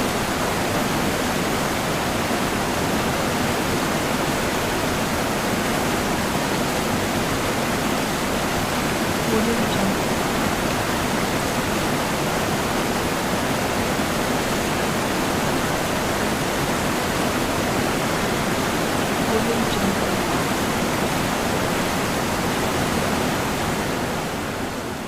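Steady rushing noise, even across all pitches, with faint short low sounds about every ten seconds; it fades out near the end.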